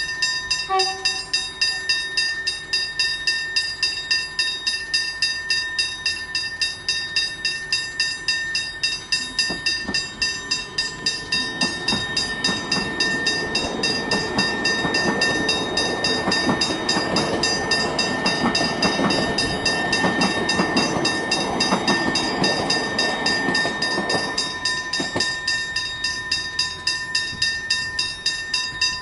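Level crossing bells ringing with rapid, evenly repeated strokes throughout. A short horn note sounds just after the start, and a train passes over the crossing from about 11 to 25 seconds in.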